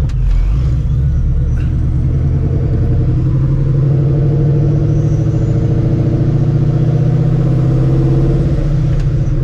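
Supercharged 4.6-litre two-valve V8 of a New Edge Mustang GT running unmuffled through open exhaust dumps off the X-pipe, heard from inside the cabin while driving: a loud, deep exhaust note that climbs gradually and then drops off sharply near the end.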